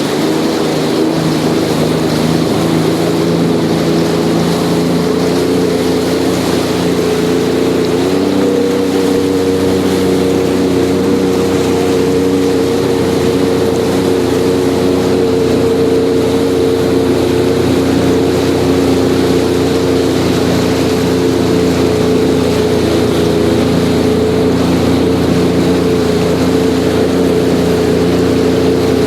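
Sea-Doo jet ski's engine running steadily at low, no-wake speed, its pitch stepping up slightly about eight seconds in.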